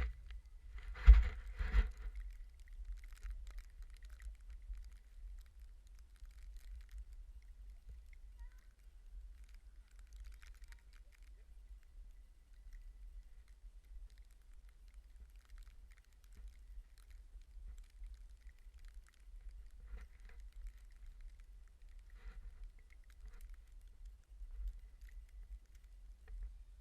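Wind buffeting a GoPro's microphone as a steady low rumble, with faint scattered crackles and two loud thumps about a second in, from the camera pole being handled.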